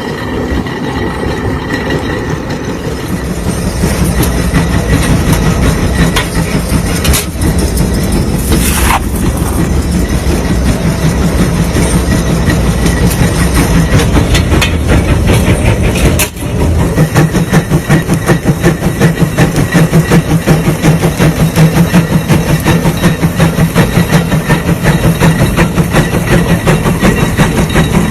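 Steam traction engine working under load, its exhaust chuffing in a steady rapid rhythm. There is a brief break about 16 seconds in, after which the chuffs are sharper and evenly spaced.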